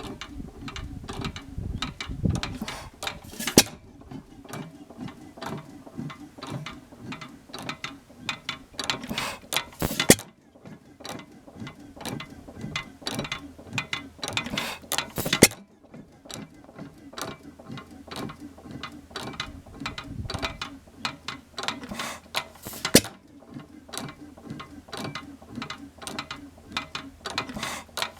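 1918 5 hp Monitor horizontal hit-and-miss engine running slowly, firing with a sharp bang about every five to seven seconds. Between firings it coasts with steady rapid clicking and clatter from its valve gear.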